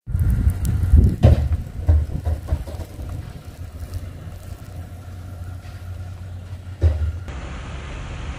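Low rumble of a motor vehicle running, with several knocks and thumps about a second in and a louder one near the end.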